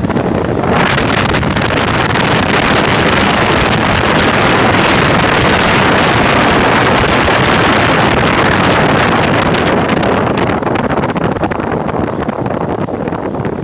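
Steady rushing noise of a vehicle driving in the rain, tyres on a wet road and wind, swelling about a second in and easing off near the end.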